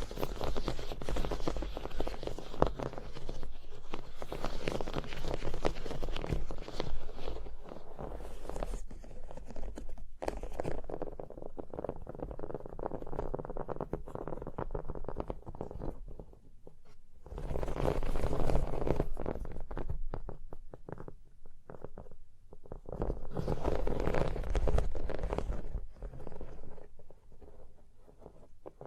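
Close-miked rapid tapping on objects: dense runs of quick taps, with brief lulls twice in the middle.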